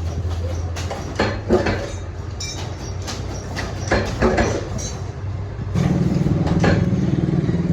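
Workshop machinery running with a steady motor hum and scattered knocks and clatter. A louder, slightly higher-pitched hum starts about six seconds in.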